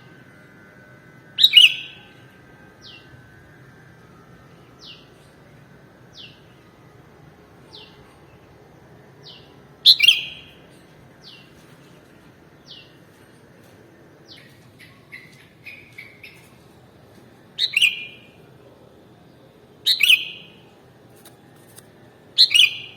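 Sooty-headed bulbul calling: five loud, short calls that drop quickly in pitch, spaced irregularly, with fainter short falling notes about every second and a half between them and a quick run of small notes midway.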